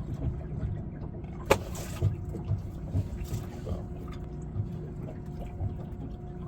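Water sloshing against a boat under a steady low hum, with a sharp knock about one and a half seconds in and a few lighter knocks.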